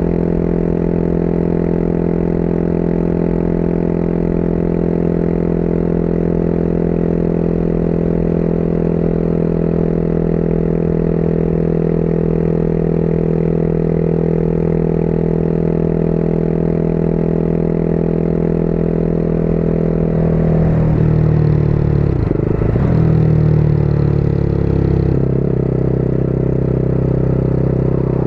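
Motorcycle engine running at a steady speed. About twenty seconds in the engine note changes, dipping and rising, then settles to a new steady note.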